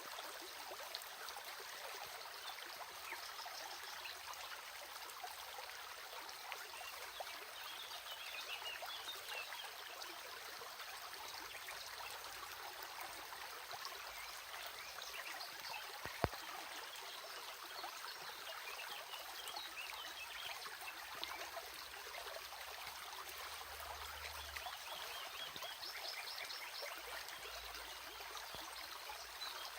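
Stream of water trickling steadily, with a single sharp click about halfway through.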